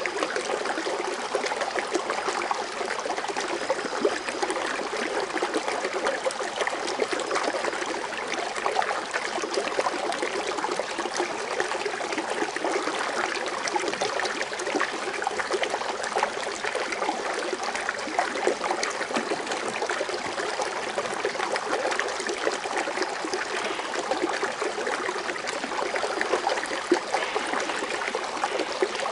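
Foaming water fountain running steadily: water splashing and trickling continuously into its basin.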